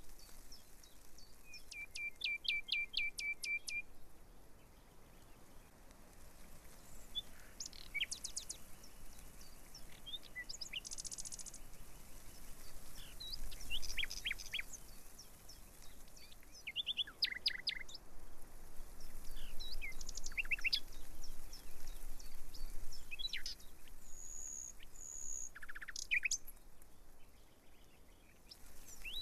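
Birdsong: several birds chirping and calling on and off, with a rapid trill of repeated notes near the start and a held high whistle near the end.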